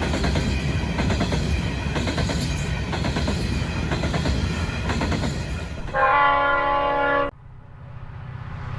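Coal train wagons rolling past with a fast clatter of wheels over the rails. About six seconds in, a locomotive horn sounds a loud chord for just over a second and cuts off suddenly, leaving a quieter low rumble that slowly grows.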